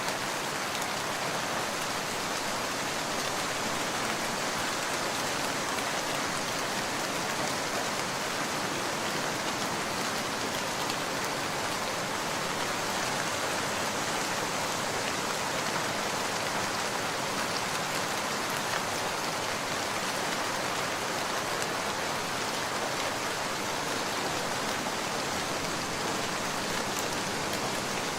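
Steady rain falling, an even hiss of drops that neither builds nor fades, with no thunder.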